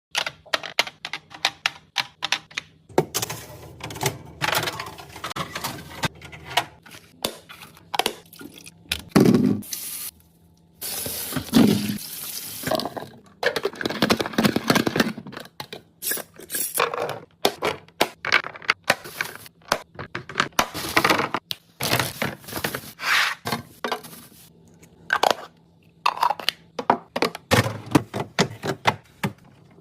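Kitchen handling sounds from fridge cleaning: many irregular clicks, knocks and clatters of containers and shelves, with a few spells of running water, one about 11 seconds in.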